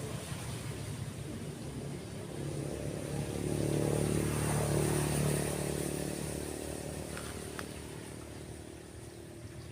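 A motorcycle passing by, its engine swelling to a peak about four seconds in and then fading away, over the steady wash of waves breaking on the beach.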